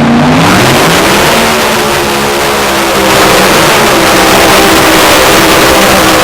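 Mini Unlimited pulling tractor's engine revving up over the first second, then running at full throttle, very loud, easing slightly about two seconds in and picking back up a second later.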